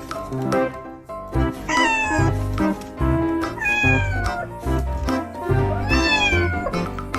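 Three drawn-out meows about two seconds apart, each sliding down in pitch, over background music.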